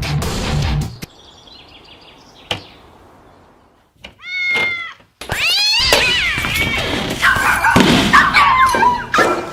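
A cat meows once, then after a short pause lets out a long, loud, wavering yowl of about four seconds. Music cuts off about a second in.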